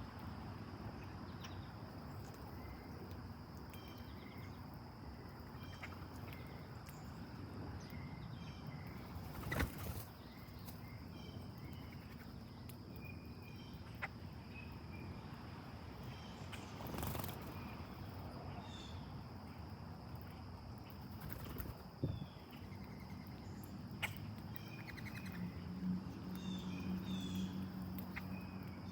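Small birds chirping now and then over a steady outdoor hiss, with a few short, sharp knocks spread through.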